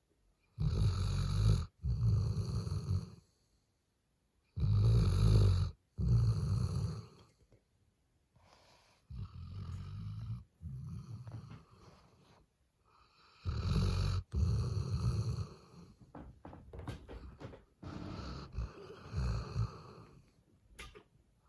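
Eight-month-old black Labrador Retriever puppy snoring in its sleep: five loud snores about four to five seconds apart, each in two parts, the first two the loudest.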